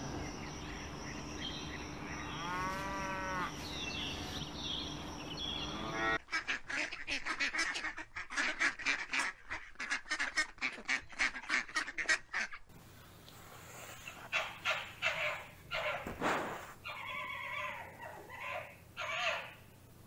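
A cow moos once about two to three seconds in over pasture ambience. Then comes a rapid, dense series of duck quacks lasting about six seconds, followed by scattered, irregular animal calls.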